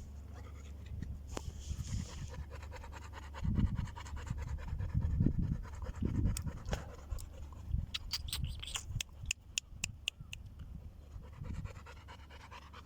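Dog panting, with scratching and rustling, and a quick run of sharp clicks about eight seconds in.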